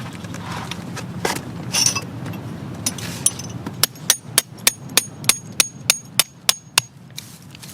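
Hammer strikes: about a dozen quick, evenly spaced knocks, three or four a second, with a faint metallic ring, after a few scattered knocks.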